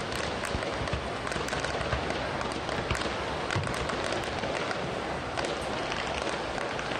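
Fireworks display: a dense run of crackles and pops, with a low boom now and then.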